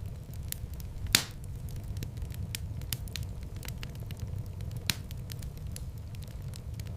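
Wood fire burning in a fireplace: a steady low rumble of flames with frequent small crackles, a loud pop about a second in and another sharp pop near five seconds.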